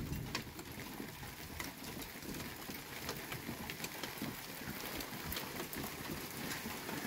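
Steady rain falling, with scattered single drops ticking on nearby surfaces.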